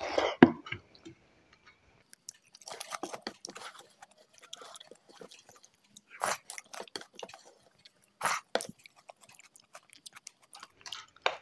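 Close-miked mouth sounds of a person eating rice and mutton curry by hand: chewing and lip smacks in scattered clusters of short wet clicks, with a sip from a spoon of lentil dal near the end.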